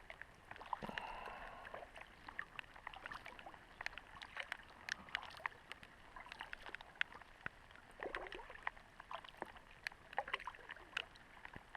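Faint water splashing and rippling around a kayak being paddled down a fast-running channel, with many small irregular splashes and drips.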